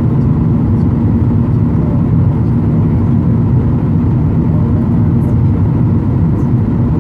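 Steady airliner cabin noise from a Ryanair Boeing 737 in flight: engines and rushing air making an even, deep rumble with a faint steady hum.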